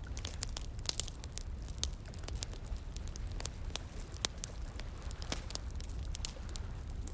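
Wood bonfire crackling, with frequent sharp irregular pops, a couple louder than the rest, over a steady low rush of flowing water.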